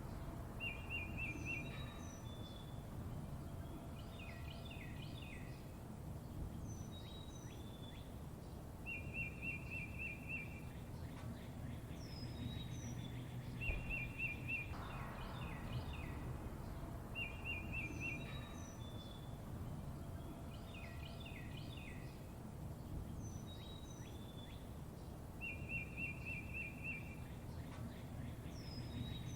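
Songbirds chirping: a short rapid trill recurs every eight seconds or so, with quick descending chirps and short high whistles between, over a steady low background hiss.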